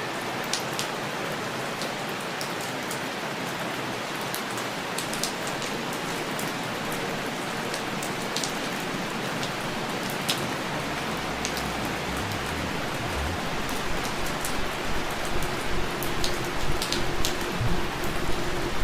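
Steady rain falling, an even hiss with scattered sharp drop clicks; after about eleven seconds a low rumble joins in and the rain turns heavier and more uneven toward the end.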